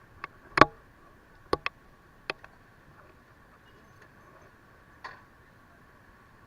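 A handful of sharp, irregular clicks and knocks, the loudest about half a second in and the last about five seconds in, over a faint steady hum.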